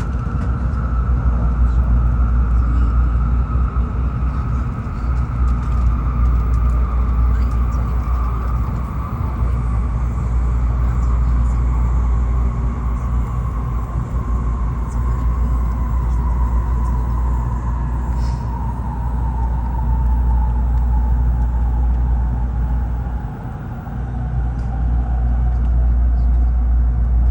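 Tokaido Shinkansen train heard from inside the passenger cabin: a steady low running rumble with a motor whine that falls slowly in pitch as the train slows on its approach to a station stop.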